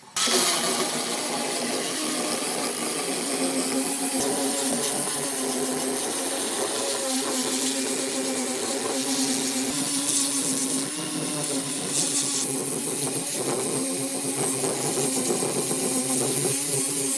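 A motor-driven power tool running continuously, its pitch wavering slightly.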